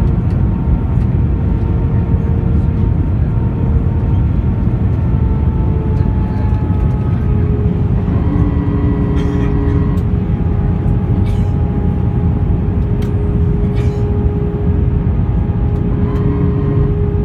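Airbus A321 jet engines and airflow heard from inside the cabin in flight: a steady loud roar with a few engine tones holding level, drifting slightly lower in pitch.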